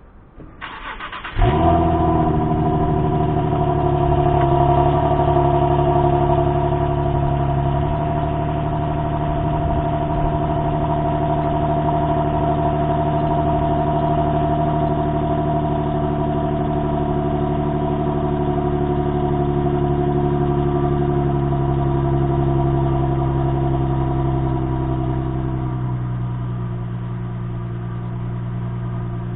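Infiniti G37's 3.7-litre V6 cold start through a modified exhaust (glasspacks in place of the resonators, a Cherry Bomb muffler on one side and a Thrush on the other): the starter cranks briefly, the engine catches about a second and a half in and settles into a loud, steady fast idle. The idle drops a step near the end as the cold-start high idle comes down.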